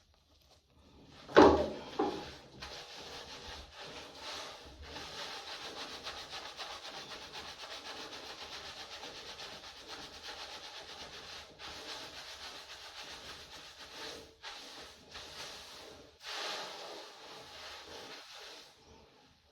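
Hands rubbing and scrubbing hair with a fast, steady scratchy texture that pauses briefly a few times. A single loud knock comes about a second in.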